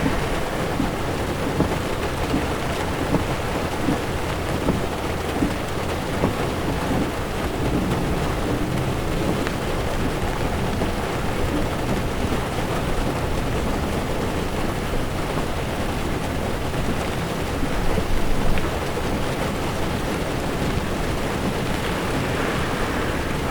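Heavy rain falling on a moving car's windshield and roof, with the steady low rumble of tyres on a wet road.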